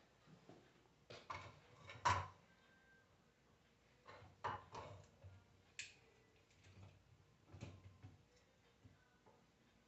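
A few separate light clicks and knocks of metal alternator parts being handled and fitted together during reassembly, the loudest about two seconds in.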